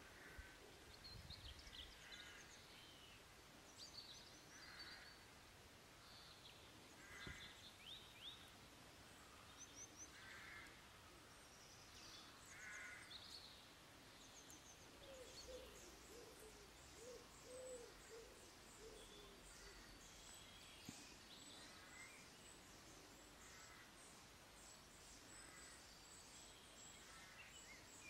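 Faint bird calls in the background, mostly short high chirps repeated every second or so, with a lower wavering call about halfway through.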